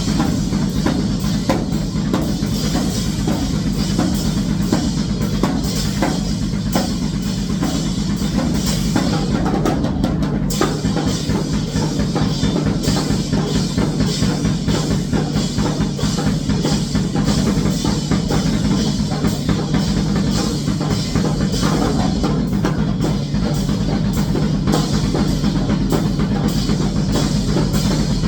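Drum kit played fast in a grindcore style, with rapid, unbroken kick and snare strokes.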